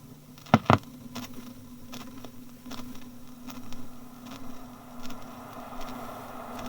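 Old railway field recording dubbed from a BBC archive disc: a steady low hum with scattered faint ticks and two sharp clicks about half a second in, then a train's rumble beginning to build near the end.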